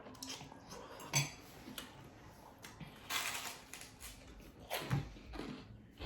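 A fork clinking and scraping against a plate while pasta is eaten, with a few sharp clinks, the loudest about a second in and again near the end.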